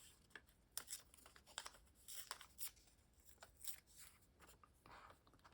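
Faint rustling and scattered soft ticks of paper being handled, as a scrap of printed text is picked out and worked for collage.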